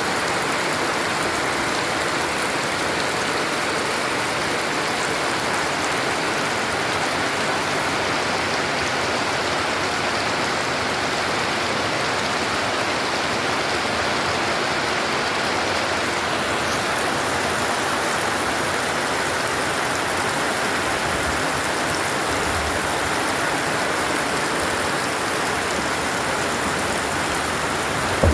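Heavy rain pouring steadily, an even rushing hiss without breaks.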